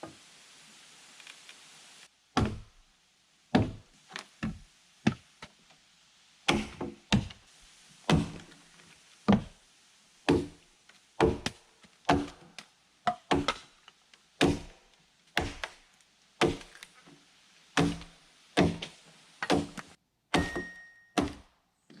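Repeated blows of a hand tool on log timber, about one a second, some twenty strikes starting about two seconds in.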